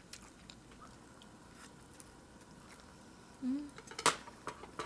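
Close-miked chewing of a pan-fried dumpling: soft, faint mouth clicks and smacks, a brief low hum about three and a half seconds in, then a sharp click just after.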